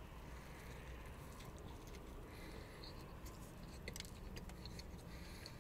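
Faint chewing and mouth sounds of a man eating a sandwich: small scattered wet clicks over a low steady hum.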